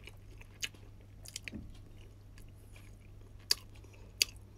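A person chewing takoyaki close to the microphone, with a few short sharp clicks, the loudest two near the end, over a faint steady low hum.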